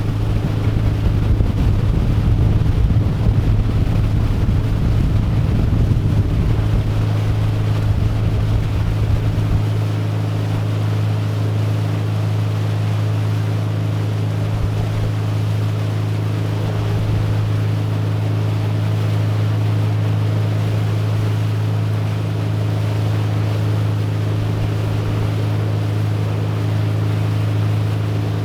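Motorboat engine running steadily at towing speed while pulling a water-skier, a constant low drone. Wind buffets the microphone for about the first ten seconds, then eases.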